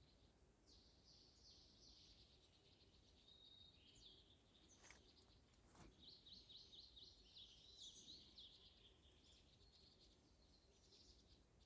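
Faint songbirds singing and chirping in the background, with a quick run of repeated chirps about six to eight seconds in. Two brief clicks sound about five and six seconds in.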